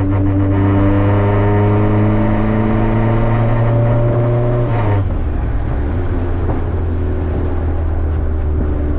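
Turbocharged Honda Civic engine under acceleration, its pitch climbing steadily, then dropping sharply about five seconds in and running steadily at lower revs.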